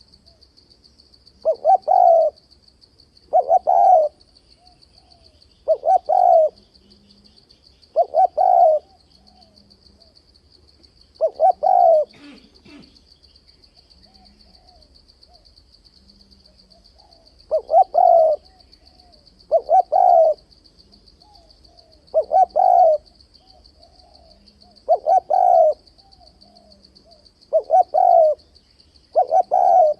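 Spotted dove cooing: repeated coo phrases, five at roughly two-second intervals, a pause of about five seconds, then six more. It is the provoking challenge call that trappers use to draw rival males into a fighting trap.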